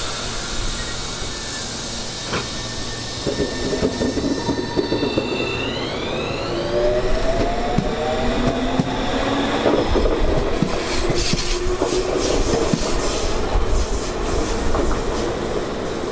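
Tobu Tojo Line electric train pulling away, its traction motors giving a whine that climbs in pitch as it accelerates. Then its wheels click over the rail joints as it gathers speed, over a low rumble of wind on the microphone.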